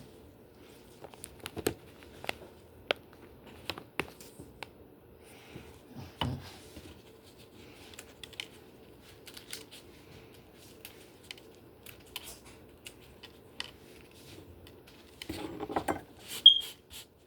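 Light kitchen clatter: scattered clicks, taps and clinks of dishes and utensils being handled, with a louder cluster of knocks near the end.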